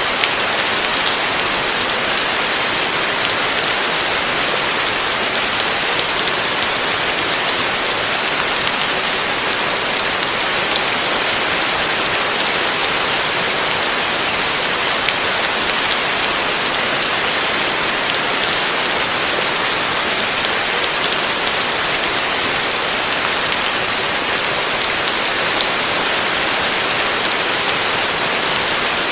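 Heavy rain falling steadily on a roof: an even, unbroken hiss with faint ticks of individual drops.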